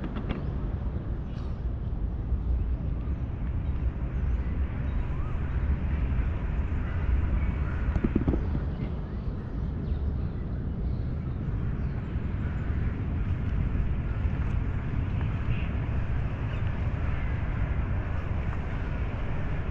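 Outdoor park ambience over a steady low rumble of city traffic, with some voices of people in the park.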